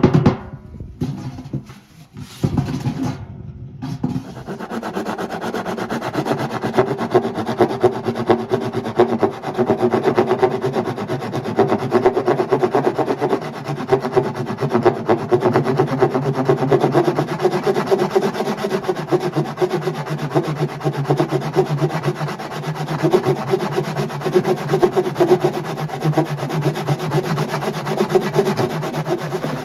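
A saw cutting through the sealed plastic tub of a washing machine, a steady continuous rasping that starts about four seconds in after a few seconds of quieter, broken handling sounds. The tub is being cut open to reach the drum bearings.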